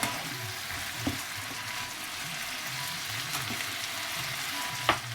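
Chicken with chili frying in a pan, a steady sizzling hiss, with a sharp knock near the end.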